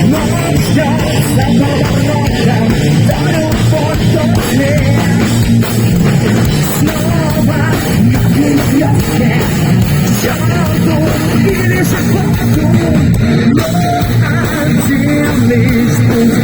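Heavy metal band playing live, with distorted electric guitars, bass and drums at full volume.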